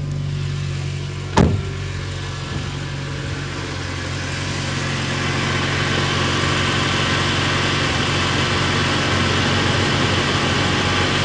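UAZ Patriot's ZMZ-409 2.7-litre four-cylinder petrol engine idling steadily after a cold start, with no audible lifter ticking. A single sharp knock about a second and a half in, and the engine gets a little louder from about halfway.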